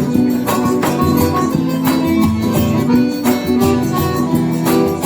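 Instrumental forró music: an accordion melody over a steady beat of drums and shaken percussion.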